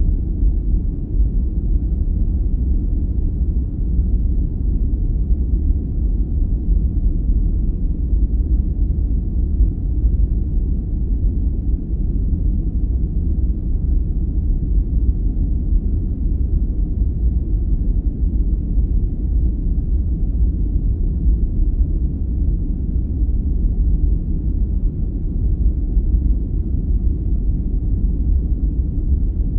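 Sleep-aid noise track: a steady, deep, muffled rumbling noise without high hiss, unchanging throughout.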